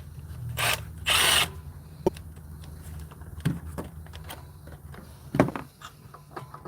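Cordless power tool running steadily while bolts are being removed, with a brief loud noisy burst about a second in and a few sharp metal clicks.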